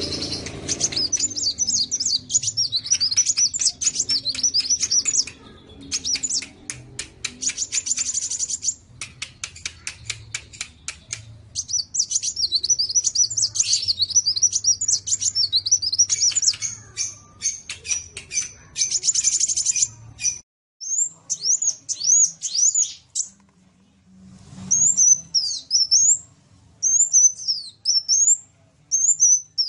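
Sunbirds (kolibri) singing a fast, high-pitched twittering song of chirps and trills, broken by bursts of rapid clicking notes, over a low steady hum. About two-thirds of the way through the hum cuts off and the song goes on as short separate chirps with pauses between them.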